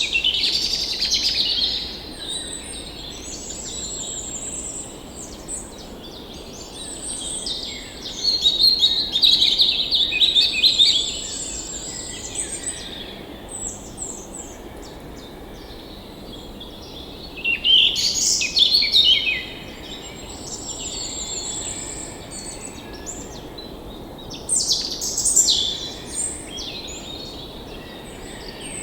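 Several songbirds chirping and singing, with quick trills and high chirps coming in bursts, over a steady low rush of background noise.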